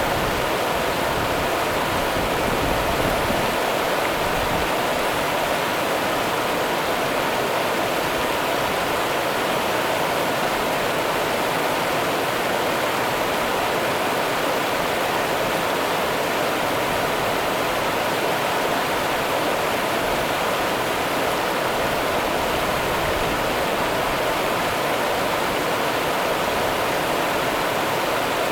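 River water rushing steadily over rocks, an even, unbroken hiss and rush.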